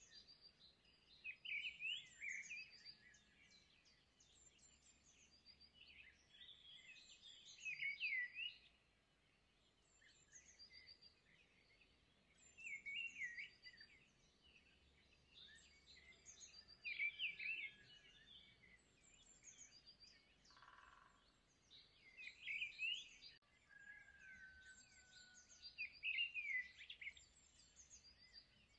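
Faint birdsong: clusters of high, quick chirps and short trills, repeating every few seconds.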